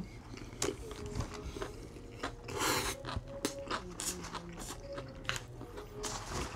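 Close-miked eating of a Triple Whopper: a sharp bite at the start, then chewing with wet, smacking mouth sounds and soft crunches, one louder crunch about two and a half seconds in.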